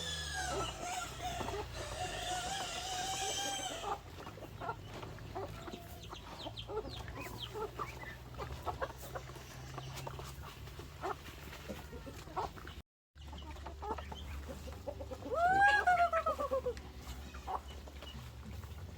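Chickens clucking, with a rooster crowing at the start and again near the end, each crow a long call that rises and then falls.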